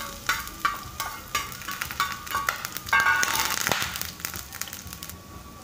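Chopped ginger and garlic sizzling in hot oil in a nonstick frying pan, with sharp pops and clicks. The crackling is loudest about three seconds in and dies down near the end.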